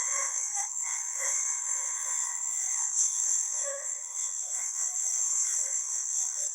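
Garbled, chirping electronic babble from a synthetic AI voice, made of short warbling blips over a steady high-pitched hiss, with no bass.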